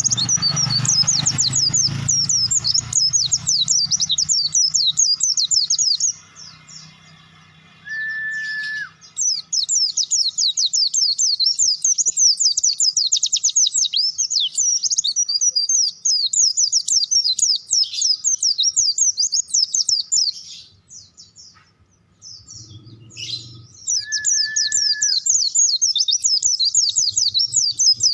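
Pleci (white-eye) singing a loud, rapid, high twittering song in long unbroken runs, with breaks about six and twenty seconds in. A short, steady whistled tone sounds twice, about eight and twenty-four seconds in.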